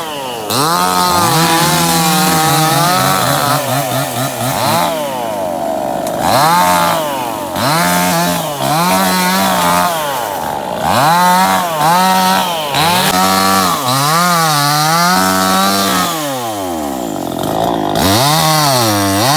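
An engine revving up and down over and over, its pitch climbing, holding briefly and dropping again every second or two.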